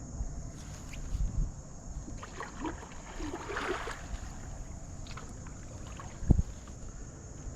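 Water moving and splashing around a kayak in river current over a steady low rumble, with one short sharp knock a little over six seconds in.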